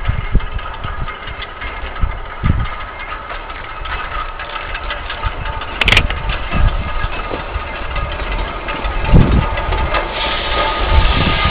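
Diesel engine of the Tsugaru Railway snowplow train running steadily, with low thumps throughout and a sharp click about six seconds in; it gets louder near the end.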